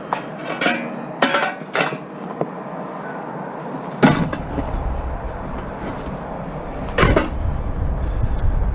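Junk being handled and loaded: a few sharp knocks and clattering in the first two seconds, a heavy thud about four seconds in, then a low rumble with another loud knock near the end.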